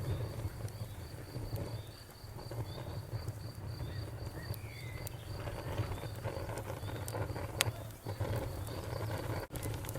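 Crackling bonfire with a steady low rumble and scattered sharp pops, one louder pop about seven and a half seconds in, under a cricket chirping in a rapid, even pulse that fades out after about six seconds.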